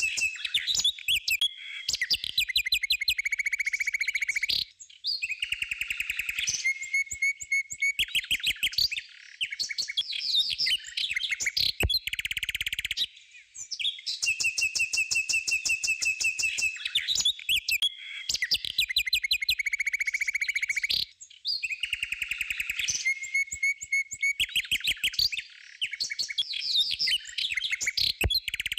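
Birds chirping, trilling and whistling, high-pitched and busy with short pauses. The same stretch of birdsong repeats about every 16 seconds, like a looped recording.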